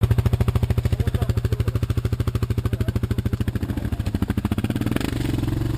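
An engine running with an even, rapid pulsing beat over a steady low hum, turning smoother about five seconds in.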